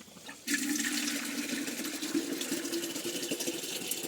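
Water pouring steadily into a large container as it is filled, starting suddenly about half a second in.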